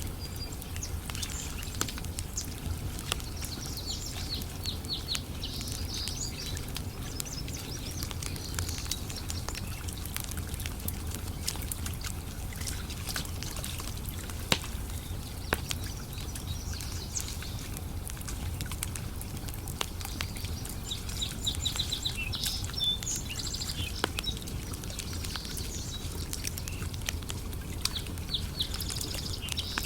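Wood campfire crackling with scattered sharp pops, over a steady low rumble. Small birds chirp in several short bouts through it.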